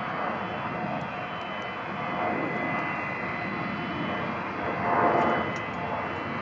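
Airliner engines running, a steady rushing noise with a thin, steady whine over it.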